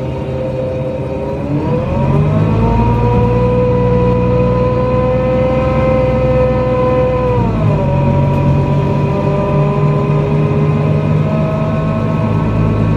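NefAZ-5299 city bus accelerating, heard from inside the cabin: a whining drivetrain tone climbs about two seconds in and holds. About seven and a half seconds in it drops a step, as the automatic gearbox shifts up, and then runs steady over a low engine rumble.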